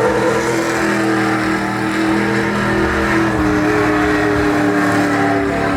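Truck engine held at high, steady revs with small wavers in pitch, as in a burnout.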